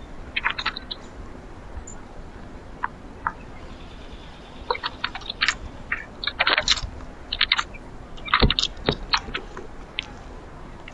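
Small birds at a feeder giving short chirps and chip notes in quick clusters, with a single knock about eight and a half seconds in.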